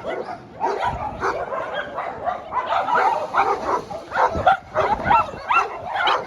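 Many dogs barking together, a dense run of short overlapping calls with no let-up.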